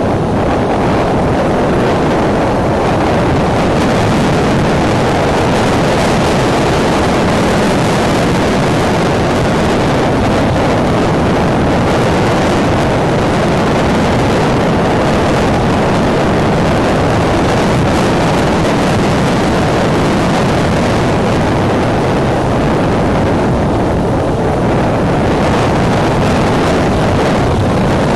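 Strong wind buffeting a nest camera's microphone: a loud, steady rushing noise, heaviest in the low range, with no let-up.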